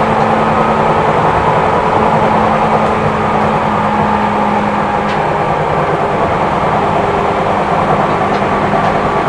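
Seibu New 2000 series electric train running, heard inside the passenger car: a steady rumble of wheels and motors, with a low hum that stops about five seconds in.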